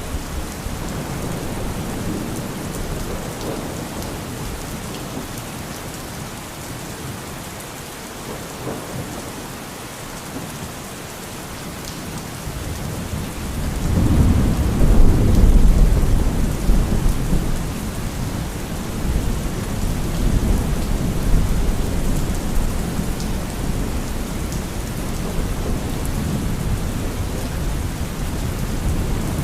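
Thunderstorm: steady rain falling, with a roll of thunder rumbling up about halfway through, loudest a couple of seconds later, then easing into lower rumbling under the rain.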